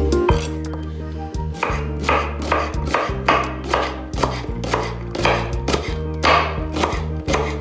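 Knife chopping food on a cutting board in a steady run of strokes, about two or three a second.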